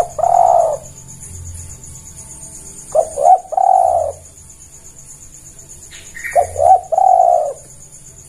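Spotted dove (tekukur) cooing: three phrases about three seconds apart, each made of two short notes and a longer, drawn-out coo. A steady, high-pitched insect buzz runs underneath.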